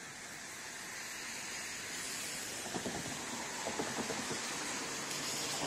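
Approaching train: a rushing noise of wheels on rails that grows steadily louder, with a rapid irregular clatter of clicks and knocks setting in about halfway through as it nears.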